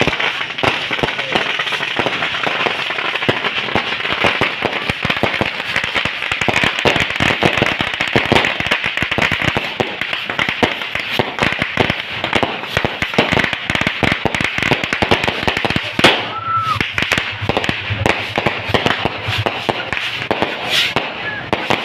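Firecrackers and fireworks going off in a dense, rapid, continuous crackle of pops. About sixteen seconds in comes the loudest bang, followed by a brief whistle, and a few separate sharp pops stand out near the end.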